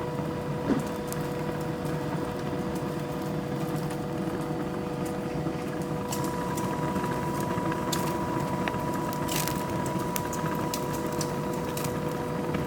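Commercial meat-grilling machine running: a steady mechanical hum with a constant whine, and scattered sharp crackles.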